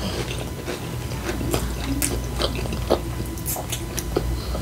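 Close-up chewing and crunching of taco salad with tortilla chips, a scatter of irregular sharp crunches.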